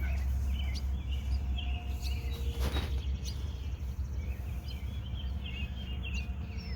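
Birds chirping over a steady low rumble, with a single sharp knock about two and a half seconds in.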